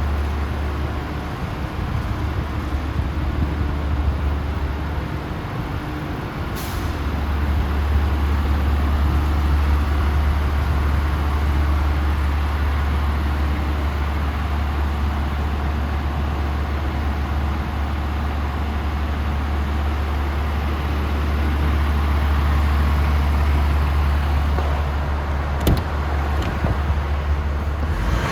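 DAF CF440 tractor unit's Paccar 440 hp Euro 6 diesel engine running steadily with a deep low hum. There is a short air hiss about six and a half seconds in and a sharp click near the end.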